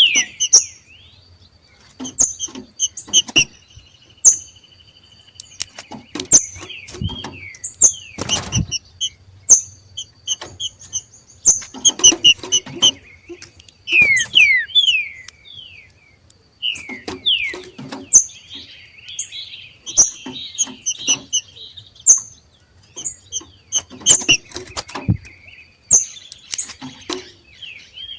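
Two green-winged saltators (trinca-ferro) giving their 'macheado' excitement calls: rapid, irregular series of sharp chips and quick down-slurred notes, mixed with many sharp clicks.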